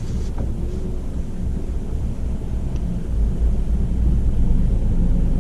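Petrol car's engine and road noise heard from inside the cabin: a steady low rumble that grows louder about halfway through as the car pulls uphill.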